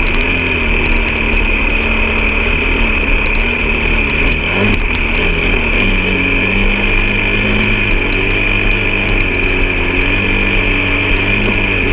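An off-road vehicle's engine running on the move at low, wavering revs, with a steady high hum and scattered clicks and rattles over it. The engine note dips about four seconds in and settles at a slightly lower pitch about six seconds in.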